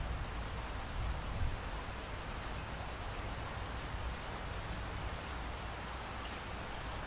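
Steady rainfall, an even hiss of drops with a low rumble beneath.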